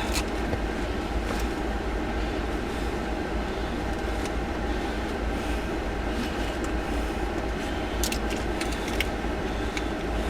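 Steady low rumble of a vehicle's engine and road noise heard from inside the cabin, with a few faint clicks and ticks near the end.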